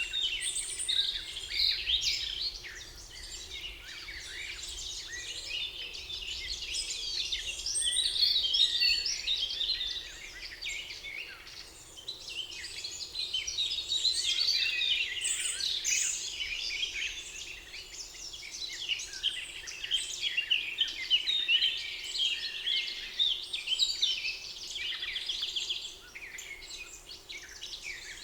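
Several birds singing at once, a dense chorus of chirps, trills and short whistled notes that never stops, over a faint steady background hum.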